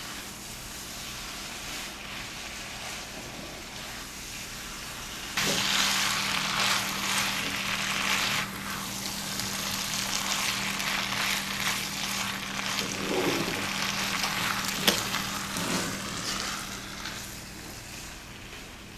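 Noodles and vegetables sizzling as they are stir-fried in sauce in a hot pan, the sizzle jumping louder about five seconds in. A utensil clatters against the pan as they are tossed, with one sharp knock late on.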